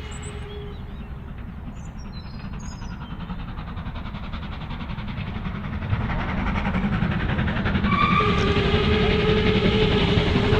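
Steam locomotive sound on a model railway: running with a fast, even beat that grows louder about six seconds in, then a long steady whistle from about eight seconds in.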